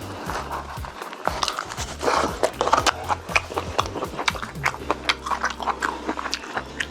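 Close-miked eating of Korean braised chicken: wet chewing and biting, with many irregular smacking clicks, over a steady low hum.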